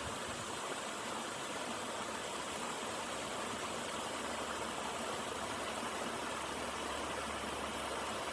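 Creek water running steadily over a small waterfall, an even rushing noise.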